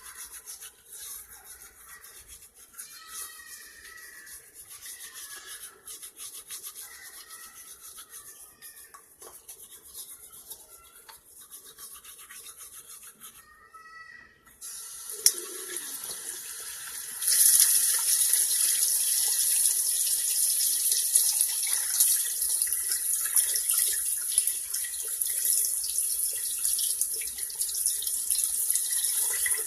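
Water running from a tap into a sink. The tap is opened about halfway through and runs harder and steadily a couple of seconds later, after a quieter stretch of small handling sounds.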